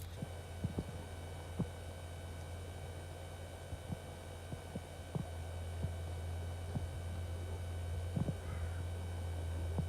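A steady low hum that grows louder about halfway through, with scattered soft taps of raindrops on a fishing umbrella.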